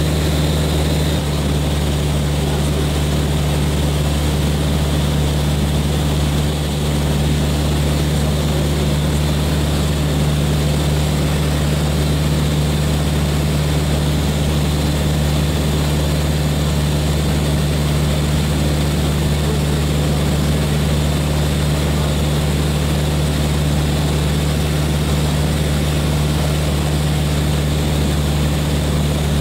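Steady drone of a Reims Cessna F182Q Skylane's six-cylinder piston engine and propeller in flight, heard inside the cabin: a deep, even hum with a constant hiss over it.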